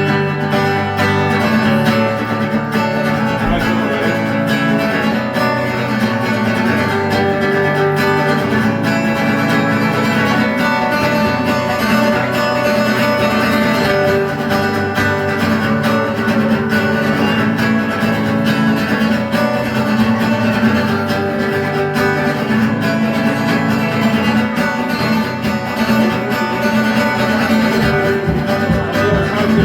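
Instrumental introduction of a song played on strummed acoustic guitar, with no singing.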